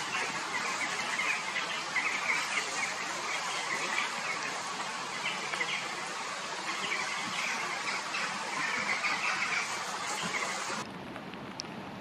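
Rapid, high bird chirping in short repeated runs over a steady outdoor hiss. Near the end the chirping stops and the hiss drops suddenly to a quieter level.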